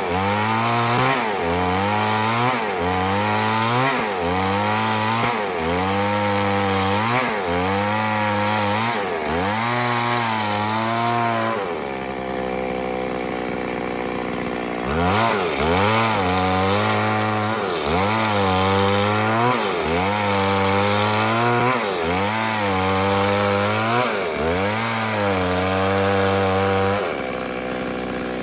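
Chainsaw cutting wood, the engine's pitch sagging and recovering about once every second and a half as the chain bites and eases. For about three seconds in the middle it holds a steady, lower note before the rhythmic cutting resumes.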